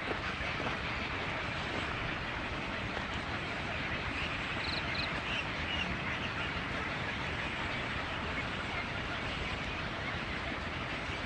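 Steady outdoor noise with a few short, high bird chirps about five seconds in.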